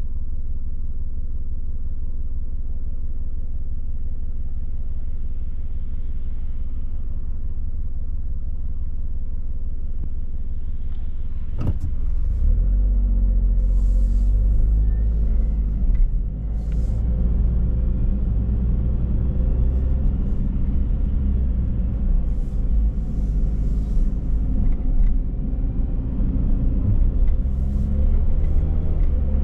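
Car driving, heard as a steady low engine and road rumble. About twelve seconds in there is a sharp knock, then the rumble grows louder and the engine's pitch rises in steps as the car picks up speed.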